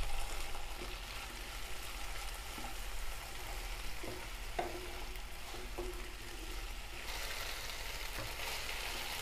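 Diced potatoes sizzling in hot oil in a nonstick pan while a wooden spatula stirs them, scraping the pan now and then. The sizzle grows a little louder about seven seconds in.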